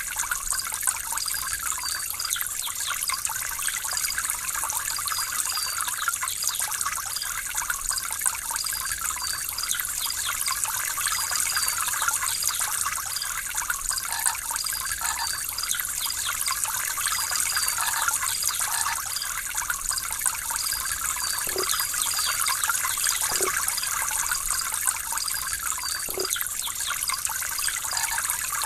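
Water trickling and splashing steadily, the relaxing water interlude of a songbird-training recording, with faint short high chirps running through it.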